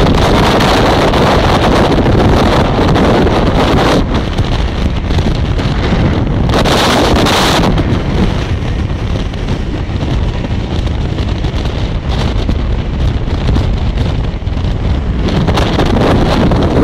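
Wind buffeting the microphone over the steady running noise of an express passenger train passing through a station at speed, heard from an open door or window of a coach. A brief louder rush of noise comes about seven seconds in.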